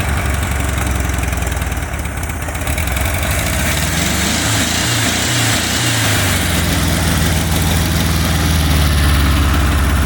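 Car engine running just after starting, revved up and down a few times about halfway through, then holding at a raised speed: the throttle is hanging open, which the owners take for a missing return spring.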